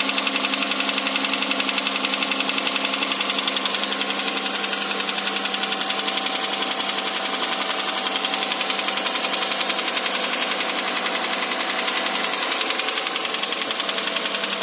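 Hyundai Santa Fe 2.7 V6 petrol engine running steadily with a fast, even knock.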